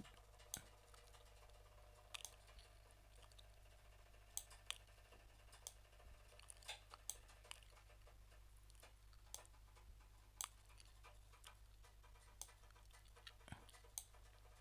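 Scattered, irregular clicks of a computer mouse and keyboard over a faint steady low hum; otherwise near silence.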